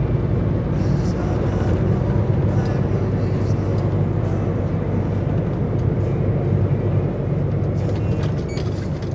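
DAF XF105.460 truck on the move pulling a loaded trailer: a steady diesel engine drone with road noise. It fades away near the end.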